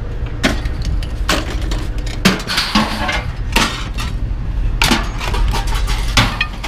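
Pieces of scrap metal being tossed onto a pile, clanking and clinking about once a second, over a steady low rumble.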